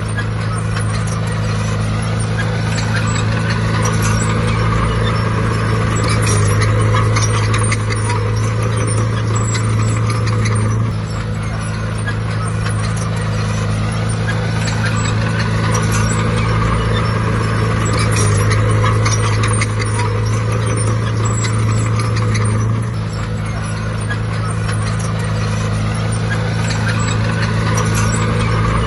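Bulldozer's diesel engine running steadily at working revs, its note and loudness shifting about every 12 seconds.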